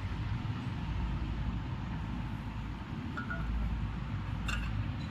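A few light metallic clinks of small engine parts and tools being handled, over a steady low rumble.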